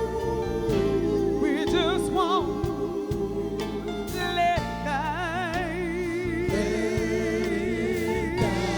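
Live soul band playing a slow song while a singer holds long notes with wide vibrato, breaking into a quick vocal run about two seconds in.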